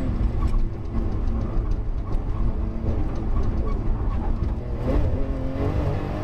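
Porsche 911 GT2 RS's twin-turbocharged flat-six engine, heard from inside the cockpit in third gear. The engine note drops as the car slows through a bend, then climbs again as it accelerates near the end.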